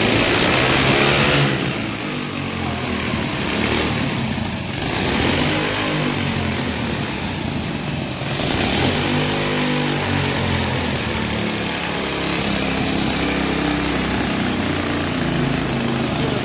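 Honda CD100's 100cc single-cylinder four-stroke petrol engine running on a test rig, its speed rising and falling several times. Short bursts of hiss come near the start, about four seconds in and about eight seconds in.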